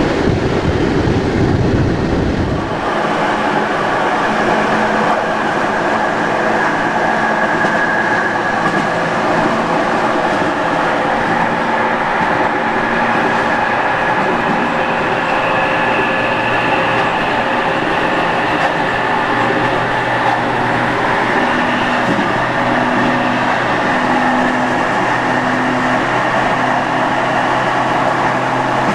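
Modernised AM80 electric multiple unit accelerating, heard from inside the car: traction motors and their electronics whine over rail running noise, with tones that climb in steps as the train picks up speed. A heavy low rumble in the first few seconds stops abruptly.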